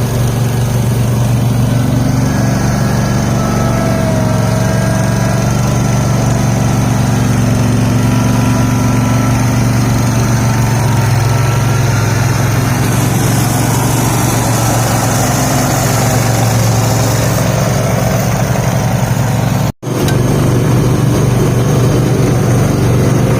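Garden tractor engines running steadily, with the sound cutting out for an instant near the end.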